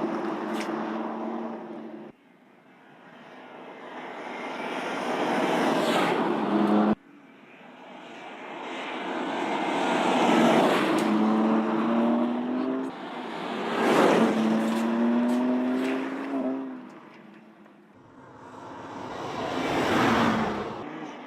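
BMW M2 Competition's twin-turbo straight-six engine driving past and accelerating several times. Each pass the engine note climbs in pitch and swells in loudness, then falls away. The sound cuts off abruptly about two seconds in and again about seven seconds in.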